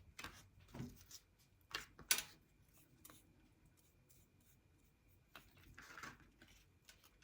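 Faint, scattered rustles and clicks from craft materials being handled, with one sharper click about two seconds in and a few soft rustles near the end.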